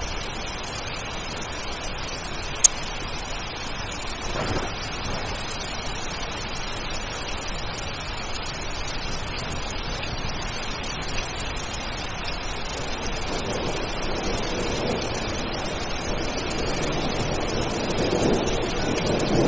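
Steady rain falling as an even hiss, with one sharp click about two and a half seconds in and a deeper swell of noise building near the end.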